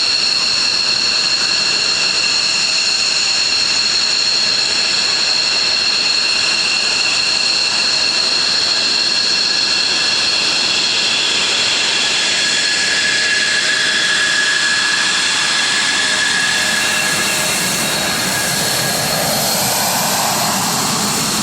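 Military jet engines running on the ground with a steady high-pitched whine as aircraft taxi out. Near the end a rising tone comes in.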